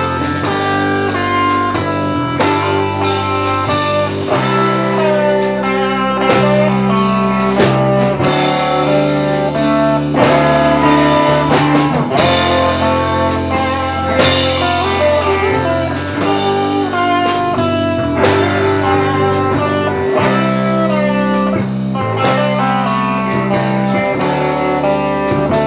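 Live rock band playing an instrumental passage between sung verses: guitar lines over bass and a drum kit with steady hits.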